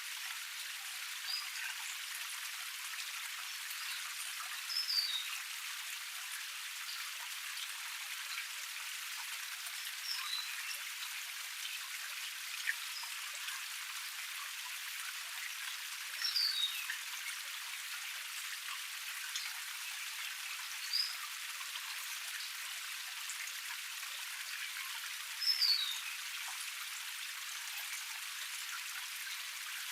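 Small forest waterfall cascade splashing steadily, with a bird giving short, high, falling chirps every few seconds, the loudest about 5, 16 and 25 seconds in.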